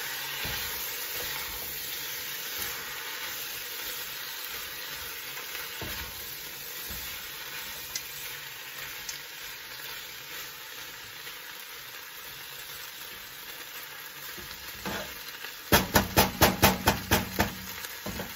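Chicken feet sizzling as they fry in hot, smoking oil with curry powder and turmeric while a spoon stirs them in the pot. Near the end, a metal spoon taps quickly against the pot, about ten sharp knocks in two seconds.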